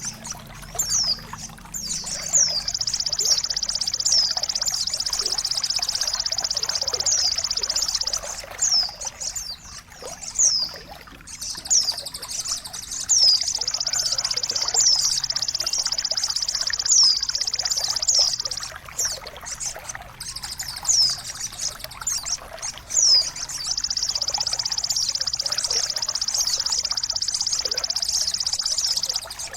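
A songbird sings three long, rapid, high-pitched trills of about five seconds each, with short downward-slurred whistled notes between them, over a steady trickle of running water.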